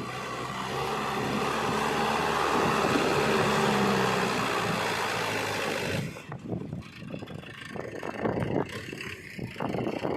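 Heavy-machinery diesel engine running steadily, growing louder over the first few seconds. About six seconds in it gives way abruptly to irregular gusty noise.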